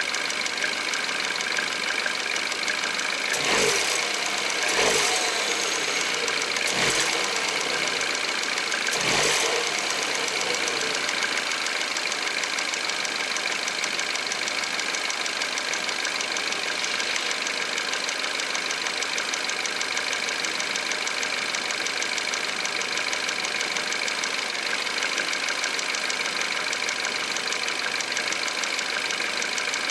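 Peugeot 408 150 hp 1.6 THP petrol engine running cold at idle, with a noise that the owner questions as the timing chain. Four brief louder swells come in the first ten seconds, then it runs steadily.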